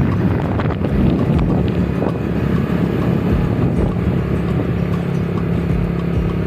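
A vehicle engine running steadily at an even pitch while moving, with wind buffeting the microphone.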